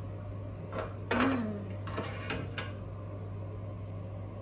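A few light clicks and taps of utensils against a plate, with a short pitched vocal sound, like an "mm", about a second in, over a steady low hum.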